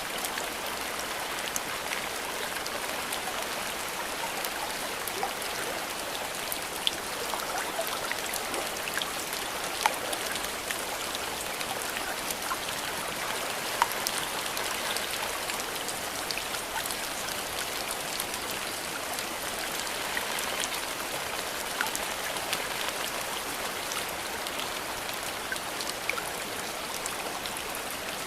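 Steady rain falling in a bamboo grove: an even hiss of rainfall with single close drops striking now and then, a few of them louder.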